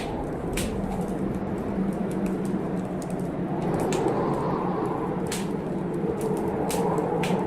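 Blizzard wind blowing steadily and swelling in gusts, with a wood fire crackling and popping in sharp, irregular snaps.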